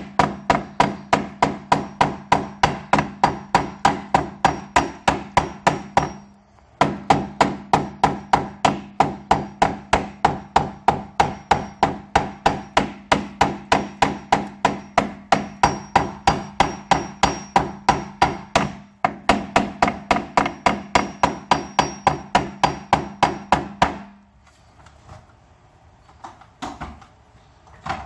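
Hammer tapping rapidly and steadily on the aluminium edge of a window crank operator housing, about three to four ringing blows a second, denting the metal down around the edge to lock the crank's ring in place. The tapping pauses briefly twice and stops near the end.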